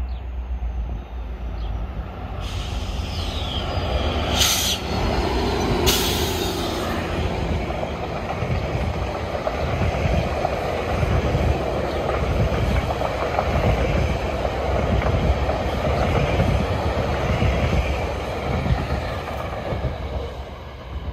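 GO Transit commuter train of bilevel coaches passing close by: a steady rumble of steel wheels on the rails, with two short sharp hisses about four and six seconds in, easing off near the end.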